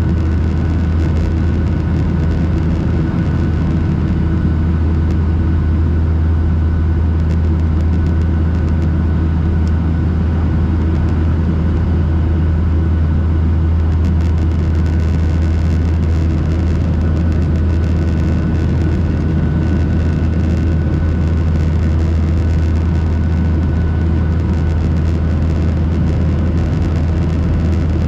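Steady drone of a Boeing 737-800 cabin during climb, with the CFM56 engines at climb power and a strong low hum.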